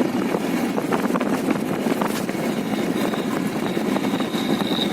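Motorcycle running at riding speed, with engine, road and wind noise. A faint, thin high tone comes in over the last couple of seconds.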